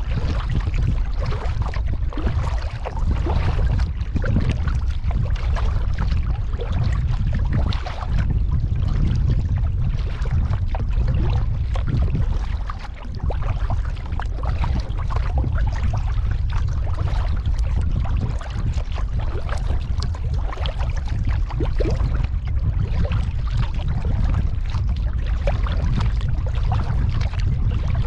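Water splashing, dripping and lapping around a kayak as it is paddled, with many small crackling splashes over a steady low rumble.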